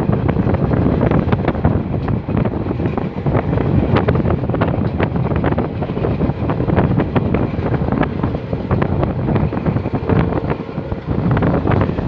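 Rushing wind buffeting the microphone over the rumble and rapid clatter of a fast-moving train's wheels on the rails, recorded from an open door of the train.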